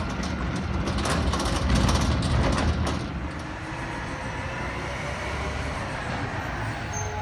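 Autocar ACX front-loader garbage truck working: its engine running with a burst of clanks and rattles over the first three seconds, then a steadier running sound.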